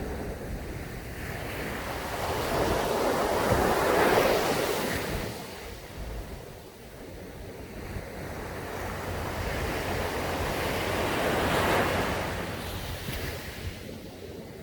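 Ocean waves breaking on a sandy beach, two swells of surf about eight seconds apart, with a low rumble of wind on the microphone underneath.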